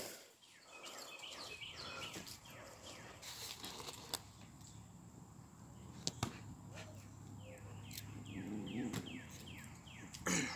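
Faint bird song: two runs of short notes falling in pitch, about three a second, with a few sharp clicks between them.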